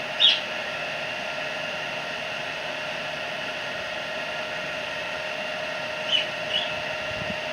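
A steady machine hum, like a small electric motor or fan running, with a few short light clicks just after the start and about six seconds in.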